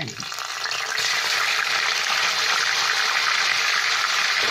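Ginger-garlic paste sizzling vigorously as it hits hot oil in a kadai. The sizzle builds over the first second, then holds steady and loud.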